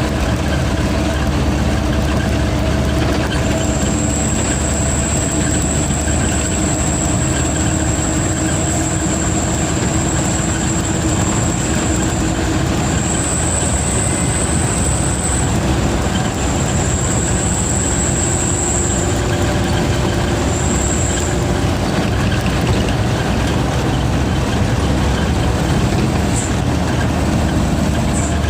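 Truck diesel engine running steadily under way, with a thin high turbocharger whistle that comes in a few seconds in, steps up in pitch briefly about halfway through, and fades out by about two-thirds of the way.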